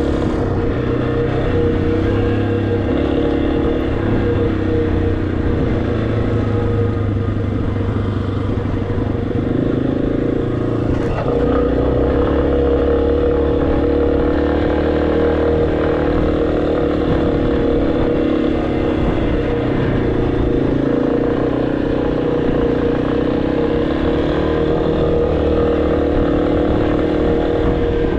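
Motorcycle engine running steadily under way, its pitch shifting only slightly.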